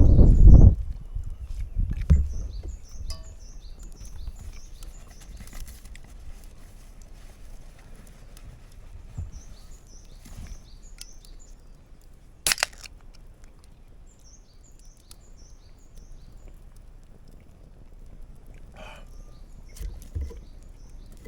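A songbird singing short runs of quick high chirps, four times over, against quiet outdoor ambience. A loud low rumble fills the first second, and a single sharp crack sounds about twelve seconds in.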